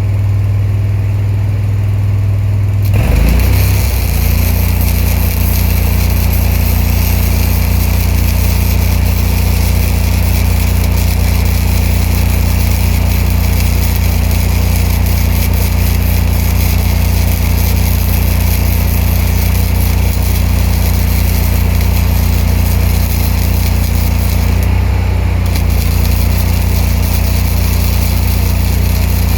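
Welding power unit's engine running, picking up speed about three seconds in as a spool-gun MIG arc is struck. The arc then hisses and crackles steadily over the engine, breaks off for about a second near the end, and resumes.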